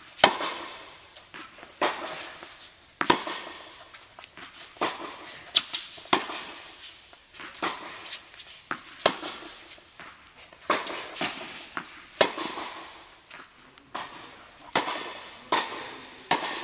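Tennis balls struck by rackets in practice play: a string of sharp pops at irregular intervals, roughly one every second or so.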